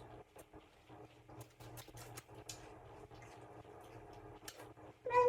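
Light, scattered clicks and taps from a spoon against a cereal bowl, with a short high whine near the end.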